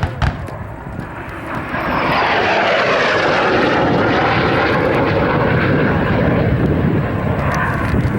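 MiG-17F jet fighter's Klimov VK-1F turbojet on a fast low pass. The jet noise swells about two seconds in and stays loud, with a slow falling sweep in pitch as the jet goes by.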